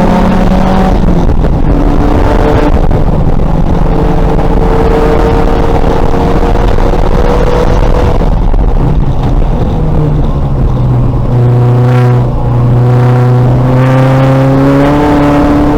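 Racing VW Golf's engine running hard at full throttle. A gear change comes about a second in, then the revs climb slowly. Around ten seconds in the pitch drops as the throttle eases, and near the end the revs rise again under acceleration.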